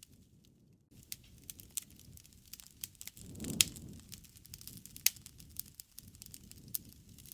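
Wood fire crackling and popping, with sharp snaps over a low rush of flame that swells midway, the loudest crack a little past halfway. The first second is almost silent.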